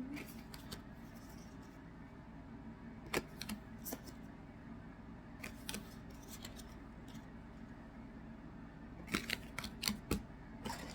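Trading cards and foil card packs being handled: scattered light clicks and snaps as cards are flipped and sorted, with a closer run of them about nine seconds in.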